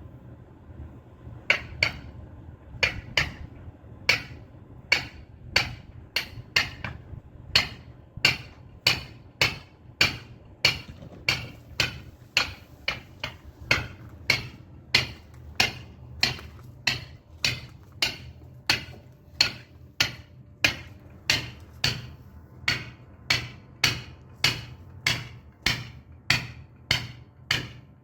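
Caulking mallet striking a caulking iron in a steady rhythm of sharp knocks, about one and a half to two blows a second, driving caulking into the seams of a wooden boat's planking.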